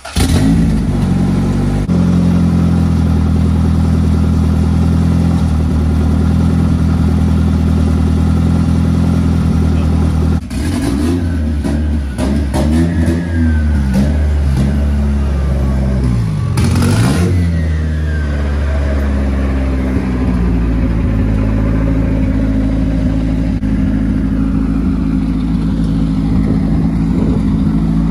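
Freshly built turbocharged Honda B20 four-cylinder in a Civic starting and running at a steady idle. About ten seconds in it is revved up and down a few times, then it settles back to a steady idle.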